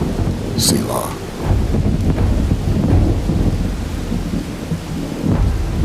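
Thunder rumbling over steady rain.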